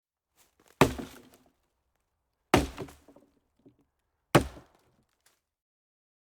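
Three sharp impacts, evenly spaced about a second and three quarters apart, each with a short ringing decay.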